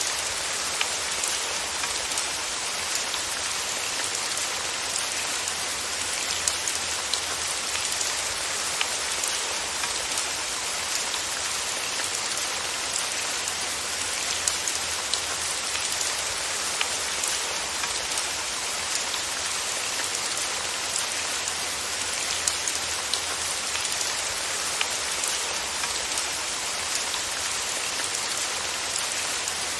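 Steady rain falling on a surface, an even hiss with the patter of individual drops ticking through it.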